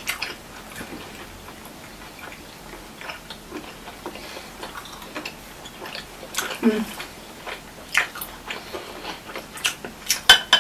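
Close-up chewing and soft mouth sounds of people eating steamed dumplings, with scattered small clicks and a brief hum of a voice about six and a half seconds in.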